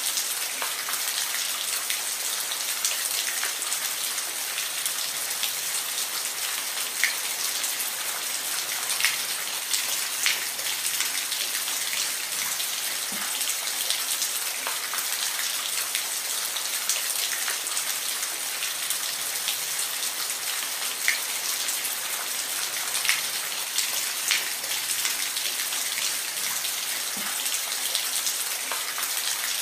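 Steady rain falling, an even hiss with individual drops ticking sharply on a surface now and then.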